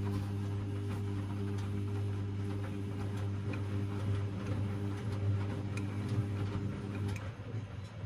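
Washing machine running mid-cycle: a steady low hum with faint scattered clicks and rattles. The upper part of the hum cuts out about seven seconds in, leaving a lower drone.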